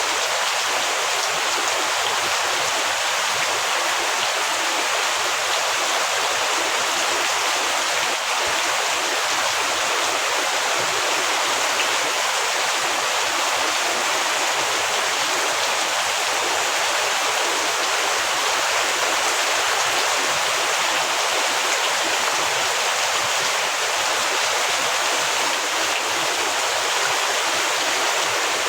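Heavy rain falling steadily, an even unbroken hiss of water.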